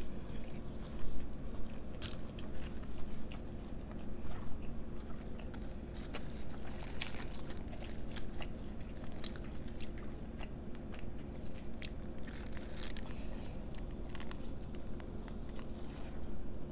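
Close-miked chewing and biting of a nori-wrapped sushi burrito: irregular crisp crunches and wet mouth clicks, the loudest about a second in.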